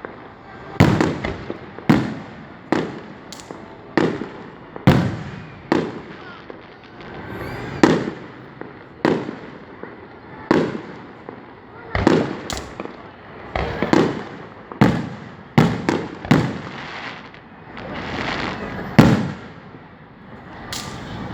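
Fireworks display: a rapid series of bangs about one a second, each one ringing out and fading in an echo.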